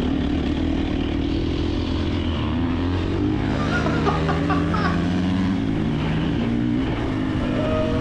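KTM 350 XC-F dirt bike's single-cylinder four-stroke engine running under way at fairly steady throttle, its pitch rising and dipping slightly.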